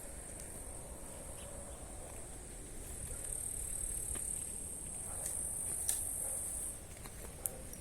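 Insects trilling steadily in a high, continuous buzz, louder for a few seconds in the middle and dropping away shortly before the end.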